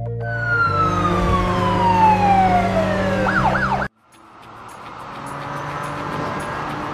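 Cartoon soundtrack: a siren-like tone slides steadily down in pitch for about three seconds over steady low tones, breaks into a short wobbling warble, then cuts off abruptly about four seconds in. A soft, noisy background with faint ticking then fades in.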